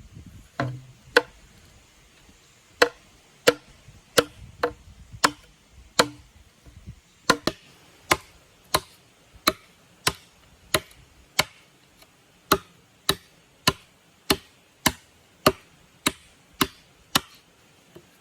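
Steady chopping with a blade, about one and a half strokes a second. The first few strokes land with a duller thud.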